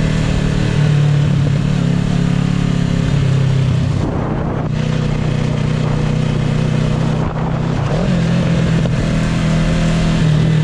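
Motorcycle engine running under way while being ridden, its note rising and falling with the throttle and briefly dropping about four seconds in and again about seven seconds in.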